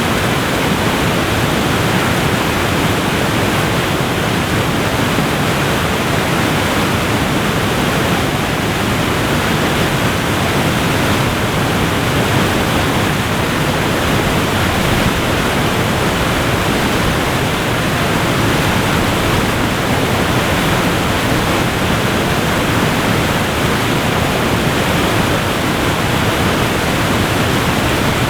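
Waterfall rushing steadily, a dense even roar of falling water with no breaks or changes.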